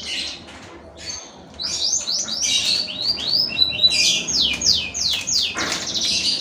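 A bird chirping: a quick run of high notes, each sliding down in pitch, starting about a second and a half in and lasting several seconds.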